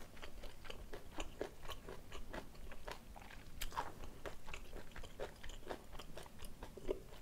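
Close-miked chewing of a mouthful of jajangmyeon made with Chinese glass noodles: irregular small wet clicks and smacks, several a second.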